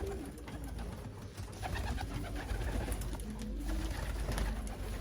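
Racing pigeons cooing, several low rolling coos one after another, with scattered light clicks and knocks among them.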